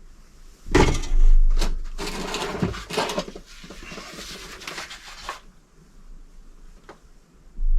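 Tools and metal parts being handled while bolts are undone on an Audi SQ7's electric compressor: a couple of knocks, then a few seconds of rattling and scraping, and a single click near the end.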